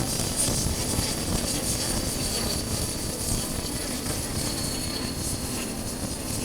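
Wind buffeting the microphone of a chest-mounted camera on a moving motorcycle, with the Honda CB400X's engine running underneath; a steady, dense rumble.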